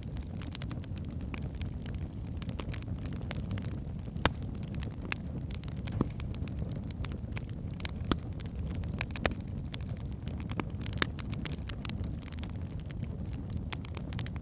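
Log fire burning in a fireplace: a steady low rumble of the flames with irregular sharp crackles and pops from the burning wood, a few louder snaps among them.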